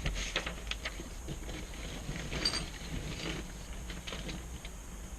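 Scattered light clicks and rustling as a torque wrench and sockets are handled between torque passes on the cylinder head bolts, with one brighter metallic clink about halfway through.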